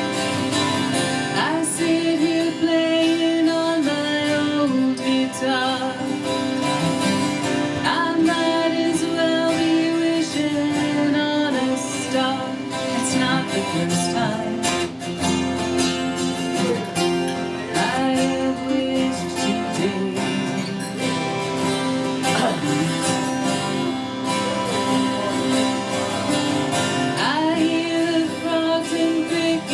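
A live acoustic song: a woman singing over strummed and picked acoustic guitar.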